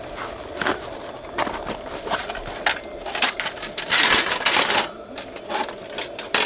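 Irregular clicks, taps and light clatter of objects being handled, with a louder rustling burst about four seconds in.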